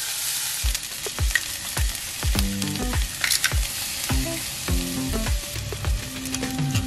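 Diced onion sizzling in olive oil in a skillet, stirred with a silicone spatula. Background music with a low, regular beat comes in about a second in.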